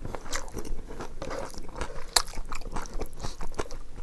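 A person chewing a mouthful of crunchy raw green vegetable, close to the microphone, with sharp crunching clicks scattered throughout and one louder crunch about two seconds in.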